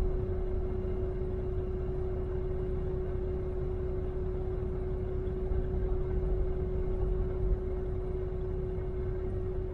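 Diesel truck engine idling, heard from inside the cab: a low, steady rumble with a constant hum at one pitch over it.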